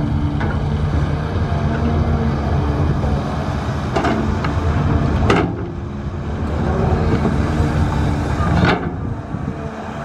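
Heavy diesel construction machinery running with a steady low engine rumble. A few short, sharp sounds cut through it, about four, five and nine seconds in.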